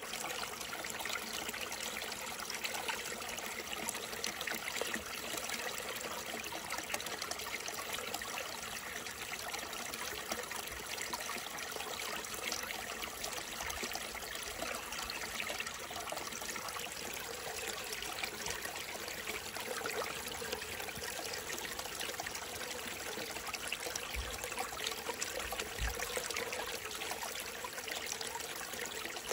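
Small mountain stream trickling and splashing steadily over rocks, with a couple of faint low thumps near the end.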